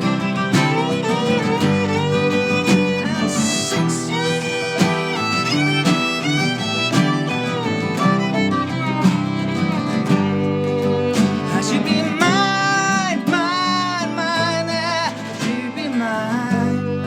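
Live band playing an instrumental passage of a song: guitar with a melody line that wavers in vibrato over it, rising higher about twelve seconds in.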